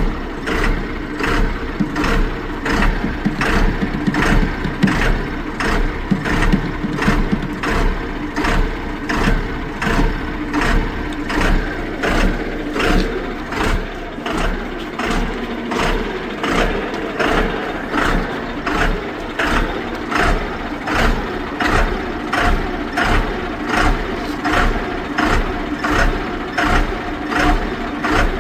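Tata Tiago engine idling with a regular surge about one and a half times a second, in a car showing code P0187 with starting and acceleration trouble.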